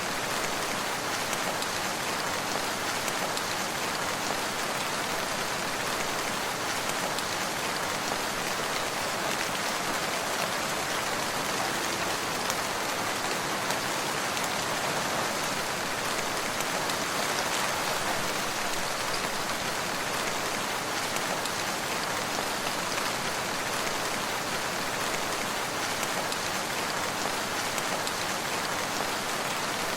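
Steady rain falling on surfaces, an even continuous patter with no thunder or other events.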